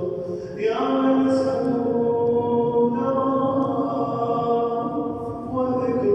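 A voice chanting an Arabic supplication in a sung style, holding long drawn-out melodic notes that shift pitch a few times.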